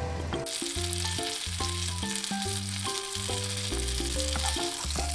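Batter-coated apple rings sizzling in hot oil in a frying pan. The sizzle starts suddenly about half a second in, over background music with a bass line and melody.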